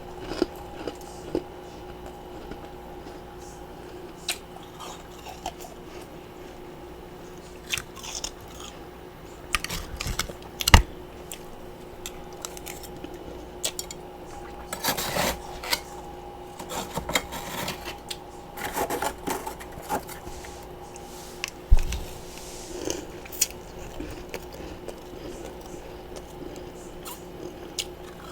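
Close-up biting and chewing of freezer frost and ice chunks: irregular crisp crunches, some in quick clusters, with a faint steady hum underneath.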